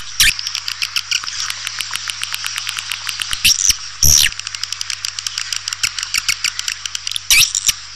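Swiftlet calls as played to lure birds to a nesting house: a rapid, dense twittering of short chirps, with two longer swooping calls about three and a half and four seconds in. A faint steady hum lies underneath.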